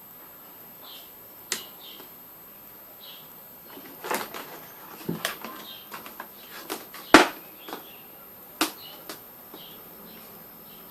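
A series of sharp, irregular clicks and knocks, the loudest about seven seconds in, over faint short high chirps.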